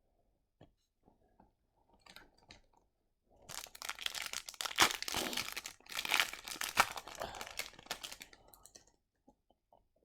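Plastic wrapper of an MVP 2022-23 hockey card pack being torn open and crinkled: faint clicks and rustles, then several seconds of dense crackling from about a third of the way in until near the end.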